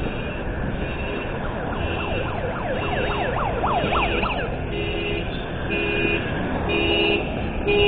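Car alarms going off: quick rising-and-falling siren sweeps, then a car horn blaring in steady on-off blasts about once a second, getting louder near the end, over a steady rushing noise.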